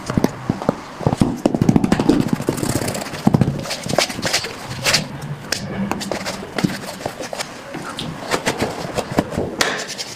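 Shoe shining on leather shoes: irregular rubbing and brushing strokes with scattered sharp taps and clicks.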